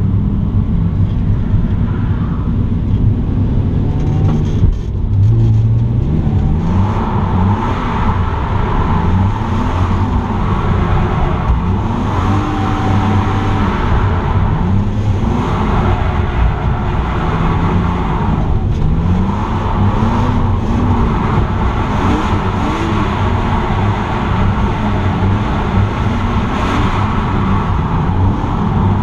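BMW E46 M3's straight-six heard from inside the cabin, revving up and down over and over as the car is driven hard through drifts, over a constant engine drone.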